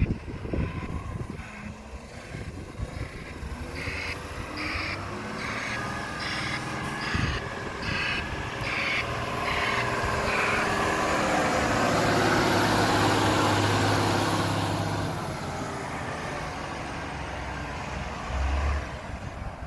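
Recycling truck's warning beeper sounding about twice a second, then its engine revving up and dying back down as the hydraulics lift and empty a wheelie bin, with a low thump near the end.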